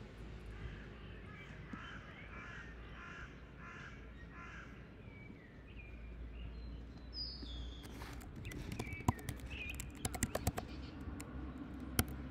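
A bird calling: a run of about six calls, two a second, in the first half. From about two-thirds of the way in come the irregular clicks of computer-keyboard typing, over a low steady hum.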